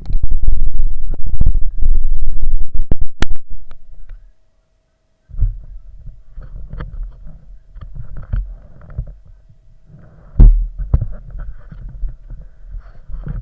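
Loud, low rumbling and buffeting on a camera microphone carried on a moving dirt bike, with irregular knocks. It cuts out for about a second near the middle, then comes back quieter.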